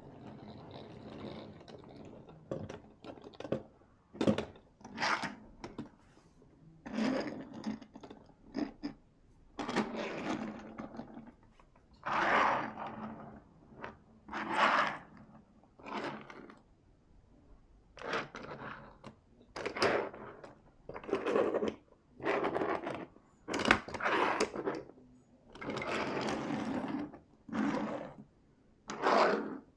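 Die-cast Hot Wheels cars running along a plastic toy track in repeated short rattling runs, each lasting about a second, with gaps between them and a few sharp clicks.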